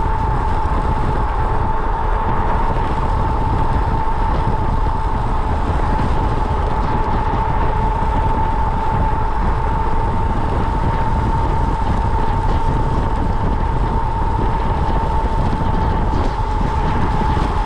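Vehicle driving at a steady speed: a constant low road and engine rumble with a steady high whine held over it, unchanging throughout.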